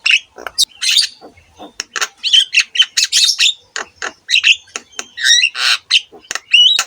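Javan myna (jalak kebo) in full song: a rapid, varied run of harsh squawks and chirps mixed with whistles, with a couple of rising whistled glides near the end.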